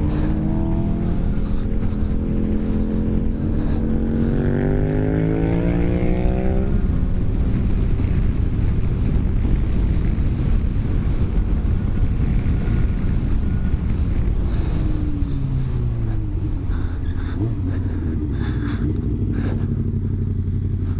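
Inline-four engine of a 2015 Suzuki GSX-R 750 with an Akrapovic slip-on exhaust, accelerating with its pitch climbing steadily for about six seconds, then easing off into rushing wind. Later the engine pitch falls as the bike slows, and it settles into a low, steady run.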